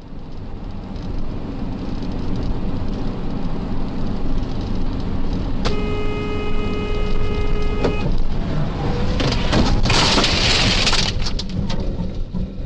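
Car driving with steady road and engine noise; a car horn sounds for about two seconds near the middle, then a loud harsh burst of noise about a second long comes about ten seconds in.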